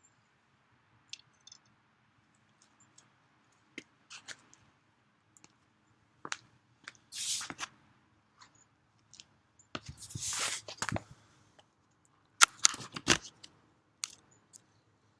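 Dry tinder (goldenrod flowerheads, dry grass and plant fluff) being handled, with irregular crunching and rustling and scattered sharp clicks, the loudest cluster near the end.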